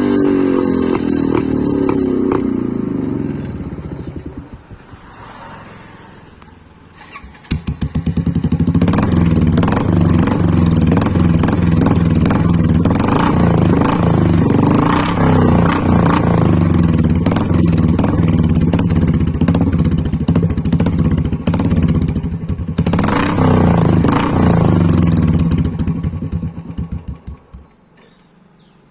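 Motorcycle exhaust: one engine note drops in pitch and fades away, then an engine starts about seven seconds in and runs with a steady idle thump, with a couple of throttle blips, before shutting off near the end.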